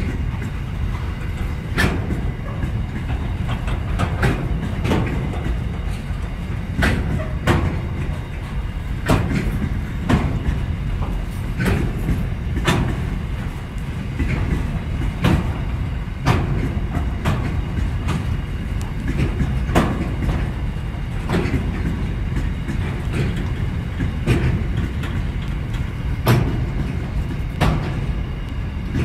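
Freight train wagons rolling past at steady speed: a continuous low rumble with pairs of sharp wheel clicks every couple of seconds as the bogies cross rail joints.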